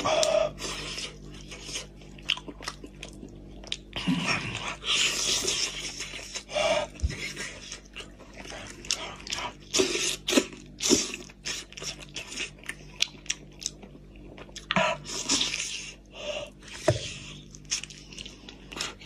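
Close-up eating sounds: a man chewing goat's head meat, with wet smacks, clicks and crunches coming in irregular bursts.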